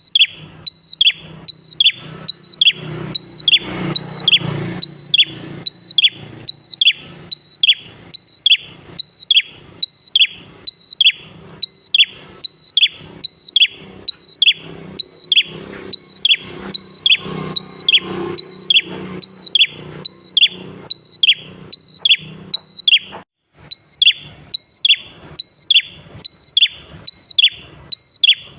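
A prenjak (prinia) calling over and over at a fast, even pace, about three short notes every two seconds, each note a high whistle that drops sharply in pitch, with one brief pause about 23 seconds in.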